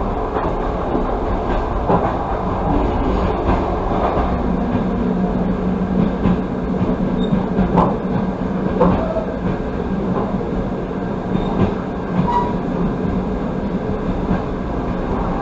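Passenger train carriage running on the rails, heard from inside the car: a steady rumble of wheels on track with a few scattered wheel clacks.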